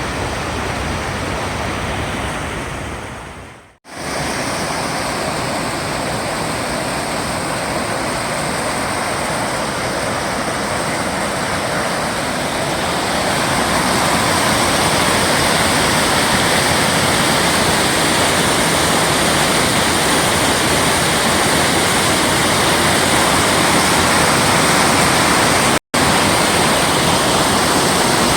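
Waterfall: a steady, loud rush of falling water. It dips away to silence for a moment about four seconds in, grows louder about halfway through, and cuts out for an instant near the end.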